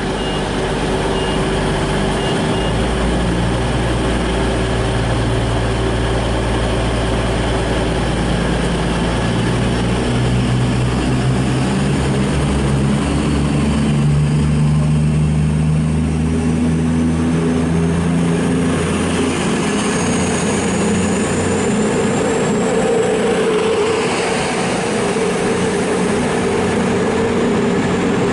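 Class 221 Super Voyager diesel-electric unit pulling away under power, its underfloor diesel engines working hard with a note that climbs in pitch through the middle. A thin high whine rises steadily in the second half.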